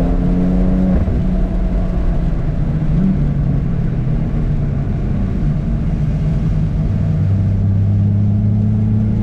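Car engine under way on a race track, heard from inside the car. The engine note holds, drops about a second in, runs steadily, then settles lower and starts rising again near the end as the car accelerates.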